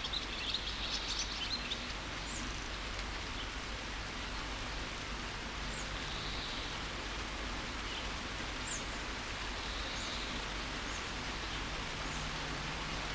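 Steady rain with scattered birdsong: a flurry of bird calls in the first two seconds, then brief high chirps every second or two over the rain.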